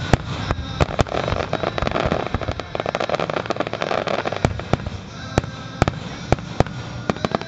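Aerial fireworks shells bursting: a string of sharp bangs, packed into a rapid run in the middle, then single bangs spaced a fraction of a second to half a second apart.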